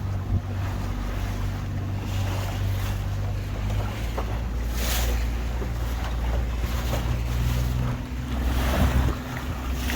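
Tour boat's engine running steadily under way, a low hum, with wind on the microphone and the wash of water around the hull swelling now and then.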